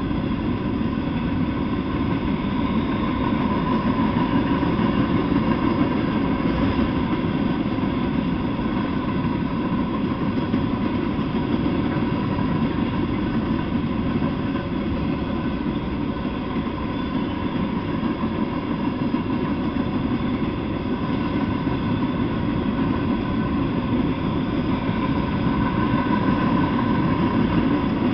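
A freight train of empty flatcars rolling past at steady speed, its wheels on the rails making a continuous, even rumble.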